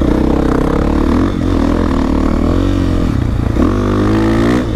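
Dirt bike engine under way, its pitch rising and falling as the throttle is opened and eased off several times.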